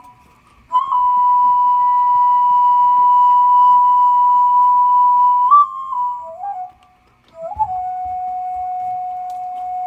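Flute playing slow, long held notes: a high note held for about five seconds from about a second in, a brief lower note, a short pause, then a lower note held steadily through the end.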